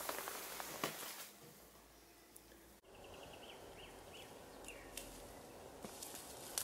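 Quiet outdoor ambience. A few faint steps crunch on gritty rubble, then a small bird gives a run of short high chirps and a falling call.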